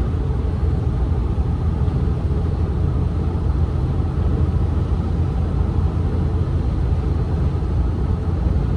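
Steady low rumble of road and engine noise inside a vehicle cabin while driving at highway speed.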